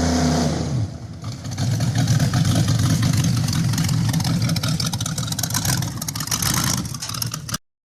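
A rat rod truck's engine running with a loud, rough, crackly rumble, rising in after the last notes of a song fade and cutting off suddenly near the end.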